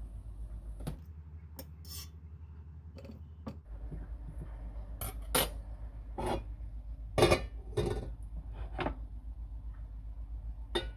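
Kitchen clatter: about a dozen separate knocks and clinks of dishes and utensils being handled, the loudest about seven seconds in, over a steady low hum.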